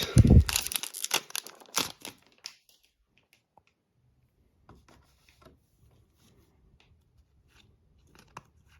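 An Upper Deck hockey card pack wrapper torn open and crinkled, with a thump just after the start and the crackling mostly in the first two and a half seconds. After that only faint scattered rustles and clicks of the cards being handled.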